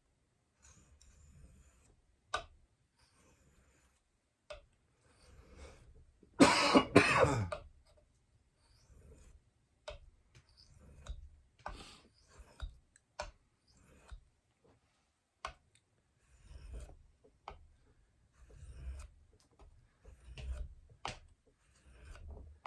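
A knife blade is stroked across a wet fine-grit Japanese water stone (about 10,000 grit) in short, irregular scraping passes, with sharp clicks in between. The loudest sound is a cough about six and a half seconds in.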